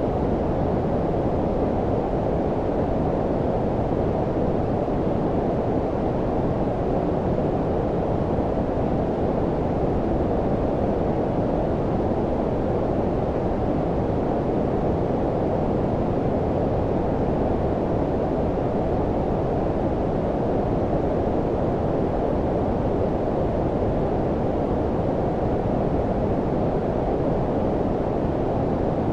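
Steady low-frequency sleep noise, close to brown noise: an even, deep hiss with little treble, never changing in level or character.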